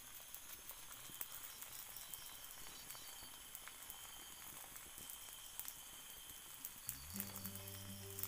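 Egg omelette frying in oil in a flat pan: a faint, steady sizzle with scattered small pops. Music starts near the end.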